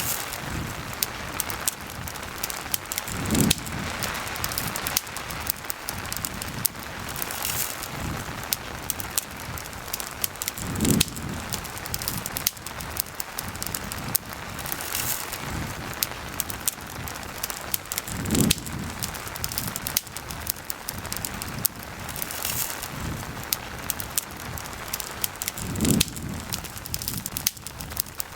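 Steady rain with a crackling campfire: a constant hiss of rain under many sharp pops and crackles from the burning wood. A soft low thump comes back four times, about every seven and a half seconds.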